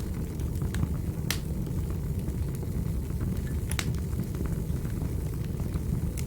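Wood fire burning in a fireplace: a steady low rumble of the flames with scattered sharp crackles and pops, two of them louder, at about one and a third seconds and near four seconds.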